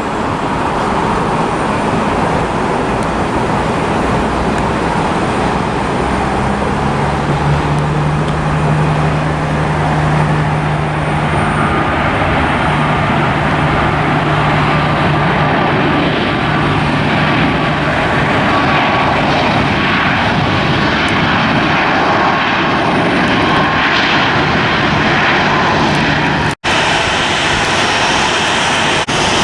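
Airliner engines running loud and steady, with a low hum through the middle and a faint whine that glides slowly down. The sound drops out for an instant near the end.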